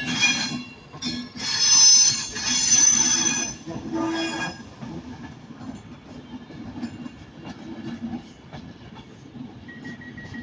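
Train wheels squealing on curved station track as a train moves off, in three loud bursts over the first four and a half seconds. Then a quieter steady rolling rumble with light clicks, and a thin steady high tone starting near the end.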